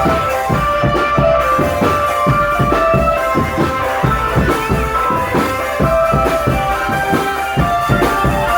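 Parade drum band playing: drums beating a steady marching rhythm under a melody of held notes.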